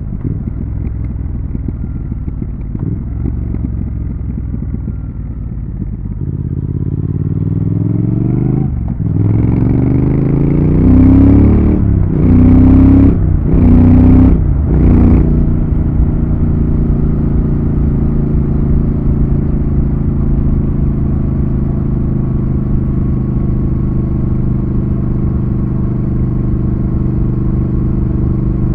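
Triumph Thruxton RS's 1200 cc parallel-twin engine on the move. It runs low and steady, then accelerates hard through several gears, rising in pitch with a short drop at each shift, and settles into a steady cruise.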